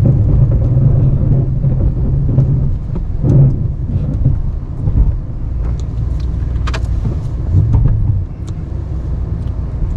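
Ram 1500 Classic pickup's engine running while it plows snow with a straight blade, its note shifting and settling lower near the end. A few sharp knocks come in the second half.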